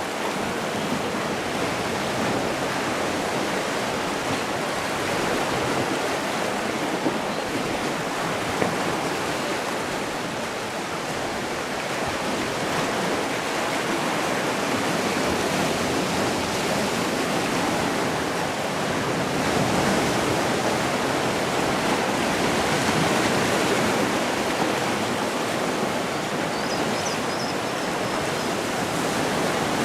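Sea surf: waves washing in a continuous rush that swells slowly, louder about two-thirds of the way through.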